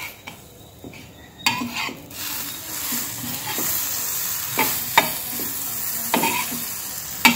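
Bread slices frying in butter on a flat griddle (tawa), the sizzle setting in about two seconds in and running on steadily, with a metal spatula knocking against the pan several times.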